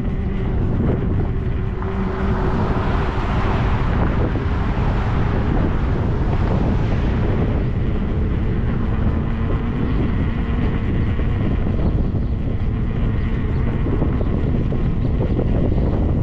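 Wind rushing and buffeting over the microphone on a moving electric motorcycle, a steady low rumble, with a louder hiss that swells from about two seconds in and fades by about eight.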